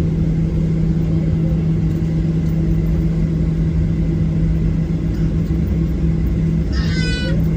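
Boeing 737-800 cabin noise heard from a passenger seat: the CFM56-7B turbofans run steadily under a loud rumble and a constant low hum. A brief high-pitched sound cuts in near the end.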